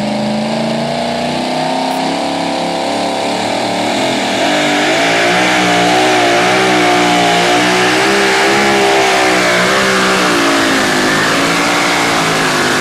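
Pulling truck's engine running hard at high revs under load during a pull, its pitch wavering up and down, growing louder about four seconds in.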